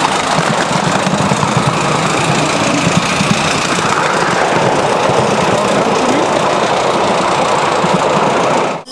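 Miniature ride-on steam train running, a steady loud rumble and rattle heard from a carriage behind the engine; it cuts off suddenly near the end.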